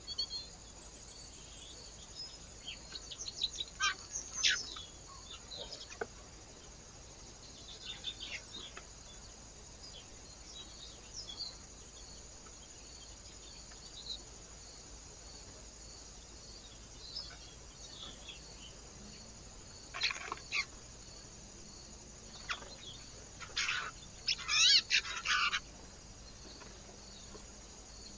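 Small birds chirping and calling at a feeder in scattered short bursts, the loudest a quick run of trilled calls a few seconds before the end, over faint steady background hiss.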